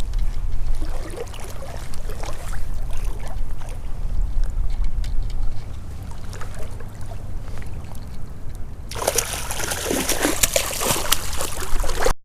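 Creek water splashing and trickling over a low rumble. About nine seconds in, the splashing turns suddenly much louder and closer, with sharp splats, until it cuts off at the end.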